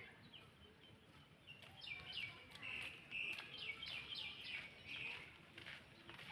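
A rapid series of short, high-pitched chirps, each falling in pitch, coming several a second and loudest in the middle stretch, over faint background noise.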